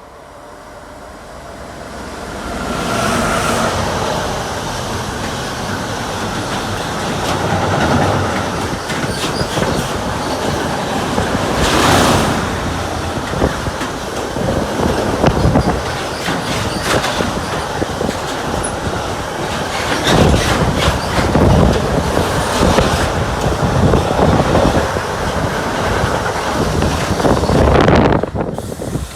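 Long freight train of car-carrier wagons passing at speed. The rolling noise builds over the first few seconds as it approaches, then holds loud and steady, with a rapid, uneven clatter of wheel clicks over the rail joints.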